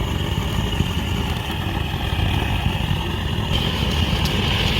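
Handheld butane gas torch burning with a steady roar and hiss, held upside down so the gas comes out; the hiss grows brighter about three and a half seconds in.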